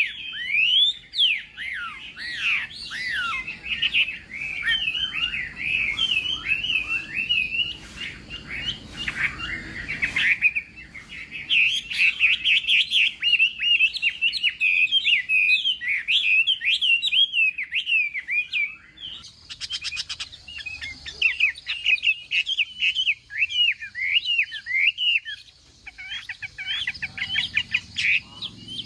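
Chinese hwamei (melodious laughing thrush) singing a long, fast, varied song of clear whistled notes that swoop up and down, broken only by brief pauses.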